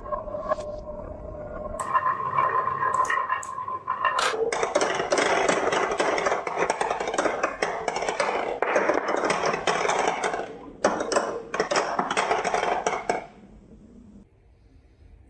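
Marbles rolling down a marble run: a rolling hum with a few clicks at first, then from about four seconds in a dense clatter of many small knocks that stops abruptly near the end.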